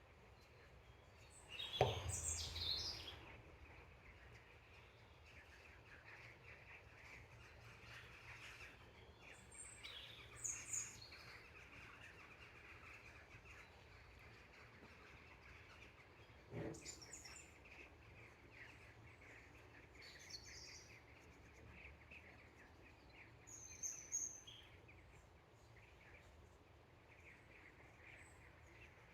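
Small birds chirping now and then over a faint steady high hiss, with two knocks, about two seconds in and again about halfway through; the first knock is the loudest sound.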